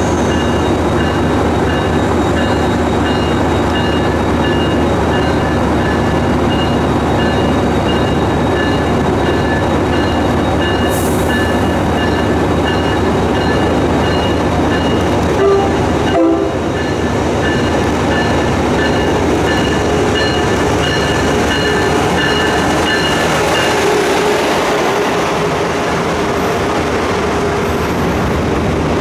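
MARC MP36PH-3C diesel locomotive idling at the platform with a steady, loud engine rumble. Two short train-horn blasts sound about halfway through. Near the end an Amtrak Acela trainset rolls slowly past, and its wheels and cars bring in a rushing rail noise.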